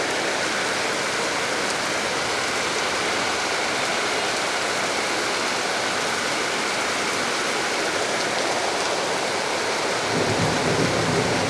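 Heavy rain pouring steadily, an even hiss of rain falling on surfaces, slightly fuller about ten seconds in.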